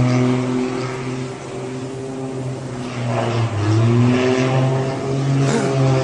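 An engine running steadily with a strong low hum, its pitch dipping and rising a little about three to four seconds in.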